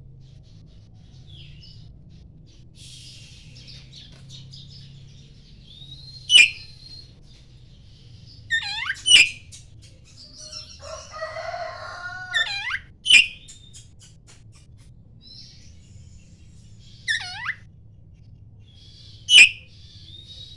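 Oriental magpie-robin singing: loud, sharp whistled notes that sweep down in pitch, given about five times a few seconds apart, with softer twittering and chattering phrases between them.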